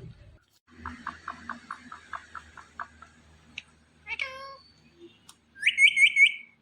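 Indian ringneck parrot calling: a quick run of about a dozen short chattering notes, a single falling call, then four loud, shrill squawks in quick succession near the end.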